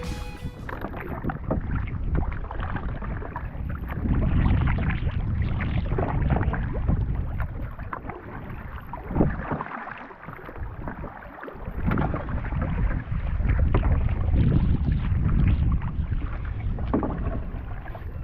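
Canoe being paddled, with water splashing and paddle strokes. Heavy wind buffeting on the microphone swells and falls in gusts.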